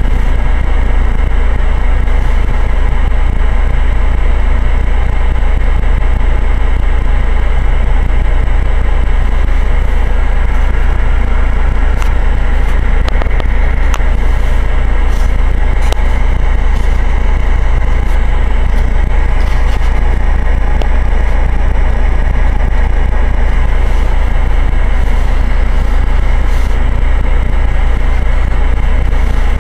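GAZ-31105 Volga's engine idling while the car stands still, heard from inside the cabin as a steady low rumble, with a few faint clicks about midway.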